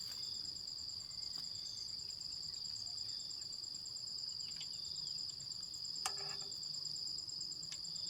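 Steady high-pitched trilling of crickets or other insects, with one short sharp knock about six seconds in.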